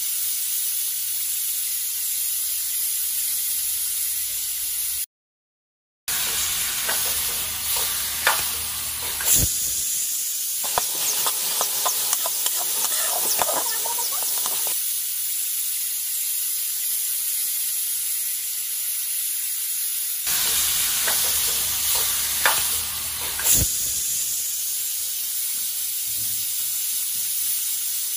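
Chopped vegetables sizzling as they fry in oil in a steel pot, a steady hiss. A wooden spatula stirs them, clattering and knocking against the pot in a run of quick ticks in the middle and a few sharper knocks later.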